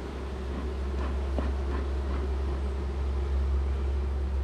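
Honeybees buzzing steadily around an open hive, over a louder steady low rumble.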